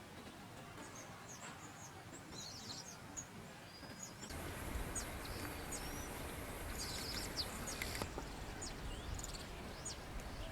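Several wild birds chirping and calling in short, high notes over a steady background hiss. About four seconds in the background noise gets louder, as from a change to another recording.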